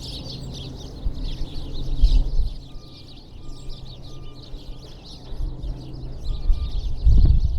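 Many small birds chirping at once, a dense continuous twitter of short calls. Low rumbling bumps cut in about two seconds in and again near the end, louder than the birds.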